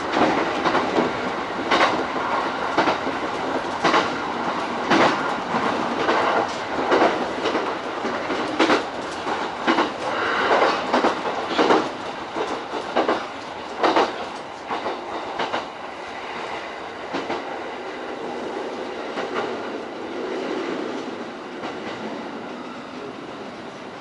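E231-series electric train running, heard from inside the lead car, with sharp wheel clicks over rail joints every second or two. The clicks grow sparse and the running noise quieter in the second half as the train slows for its station stop.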